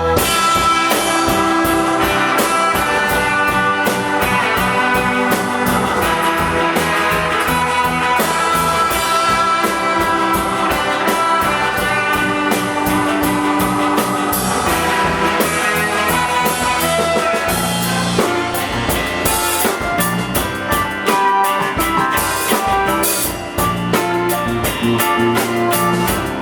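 Live rock band playing an instrumental break between sung verses: drum kit and guitars, loud and dense, with no vocals.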